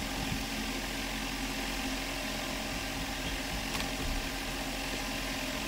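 Steady mechanical hum with hiss, unchanging throughout, with no clear events.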